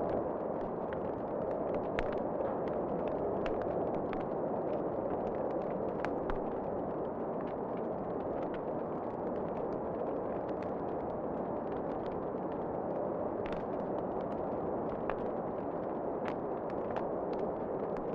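Fireplace fire crackling, with irregular sharp pops and snaps over a steady rushing noise.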